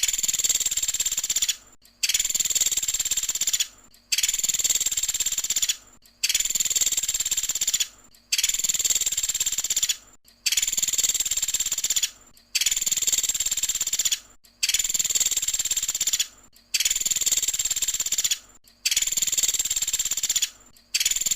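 Recorded call of a pelatuk sampit woodpecker played as a loop: about ten identical high trills, each about two seconds long, separated by short gaps at a steady spacing.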